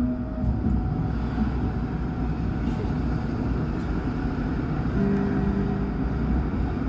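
Alstom NGT8D low-floor tram running along its line: a steady rolling rumble, with a steady electric drive hum coming in about five seconds in.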